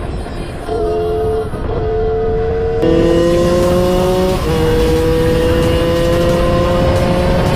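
A 50 cc two-stroke motard engine accelerating hard through the gears. Its pitch climbs steadily and drops back at each upshift, twice, over a steady rush of wind and road noise.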